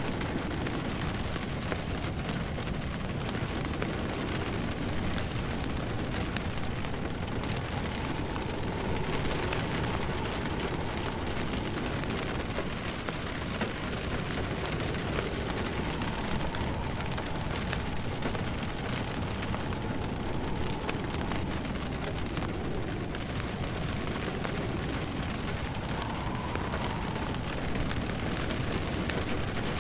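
Steady heavy rain falling, layered with an open wood fire crackling and popping.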